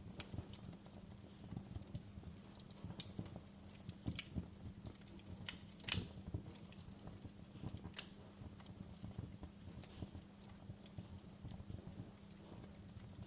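Wood fire crackling in a fireplace. Irregular sharp pops and snaps sound over a low, steady hum, with the loudest pops about six and eight seconds in.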